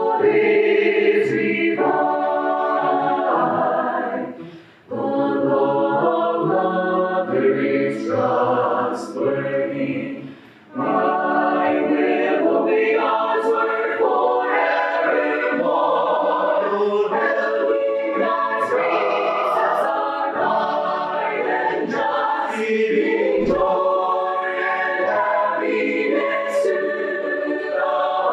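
A choir singing a hymn in sustained phrases, with short breaks between phrases about five and eleven seconds in.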